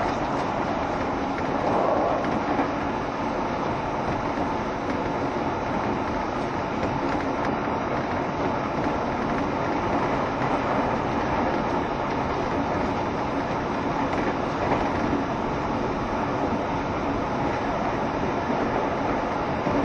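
JR Shikoku 7200 series electric train running at speed between stations, a steady rolling and running noise from its wheels and motors.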